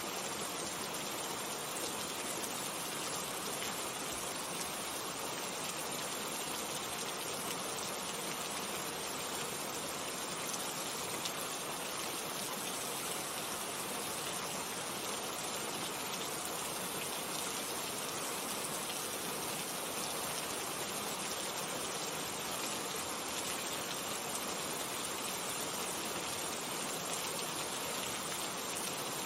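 Steady rain falling, an even, unbroken hiss of many drops that does not change.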